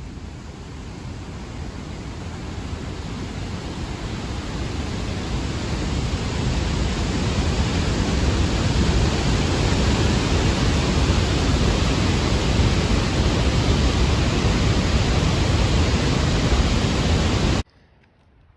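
Lower Falls of the Yellowstone River, a 308-foot waterfall, heard from its brink: a steady rushing of falling water that grows louder over the first several seconds, then holds, and cuts off suddenly near the end.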